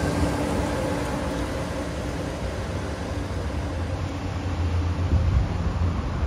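NJ Transit ALP-45A locomotive running on diesel, moving away after passing close by, with a steady low engine drone and the rumble of wheels on rail.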